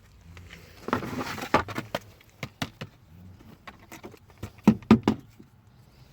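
Hands at work on parts: a brief rustle about a second in, then a run of separate sharp clicks and knocks, the loudest two close together near five seconds.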